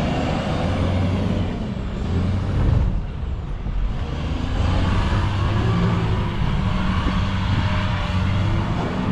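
Motor vehicle engine running steadily, its pitch rising and falling a little in the second half.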